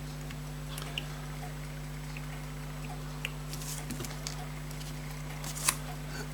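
A few light clicks and taps of small tools and parts being handled on a pocket watch, the sharpest near the end, over a steady electrical hum.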